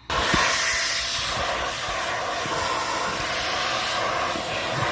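Vacuum cleaner running steadily with a loud rushing airflow and a faint motor whine, cleaning out dirt from the car's interior. It starts suddenly.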